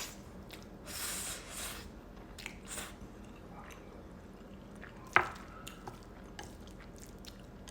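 Close-miked eating of rabokki and black bean noodles: wet chewing with scattered small mouth clicks, a brief hiss about a second in, and one sharp click a little after five seconds.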